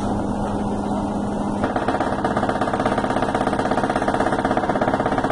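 Brastemp BNS10 front-loading washer-dryer spinning, a steady mechanical hum that takes on a rapid, regular pulsing about a second and a half in. This is the spin-cycle noise caused by the cabinet frame panel vibrating against the machine.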